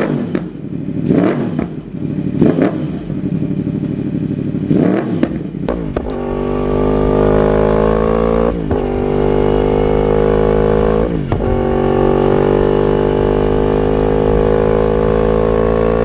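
Yamaha R1 cross-plane crank inline-four motorcycle exhaust. For the first five seconds or so the throttle is blipped in short repeated revs. Then the engine holds a long high-rev note whose pitch climbs slowly, dipping briefly twice.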